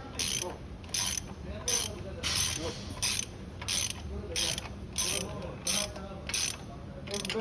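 Ratchet wrench clicking in short, even strokes, about three every two seconds, running down exhaust manifold nuts.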